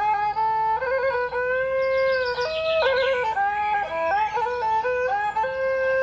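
Traditional Khmer instrumental music: a flute-like melody of held notes broken by quick trills. A run of short, high bird chirps is heard about two to three seconds in.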